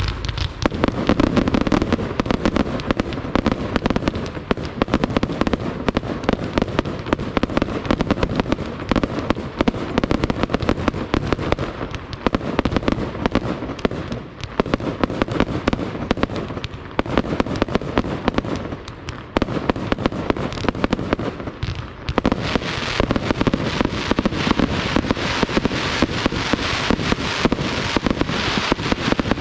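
Pirotecnica Itria fireworks display: a dense, unbroken barrage of rapid bangs and crackles, with a few short lulls. About three quarters of the way through it turns brighter and more crackling.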